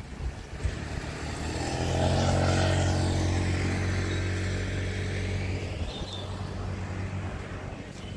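A motor vehicle passing by, its engine hum swelling about two seconds in and fading away after about six seconds.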